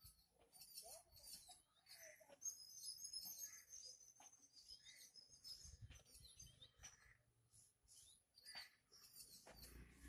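Faint bird chirps: many short, high calls scattered throughout, with a softer lower call repeating every second or so.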